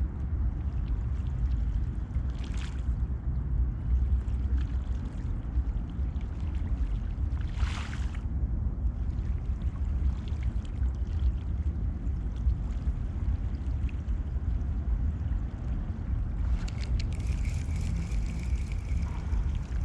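Water lapping and sloshing against a kayak at sea, over a steady low rumble. Short splashes come about two and a half and eight seconds in, and the water turns to a brighter hiss for the last few seconds.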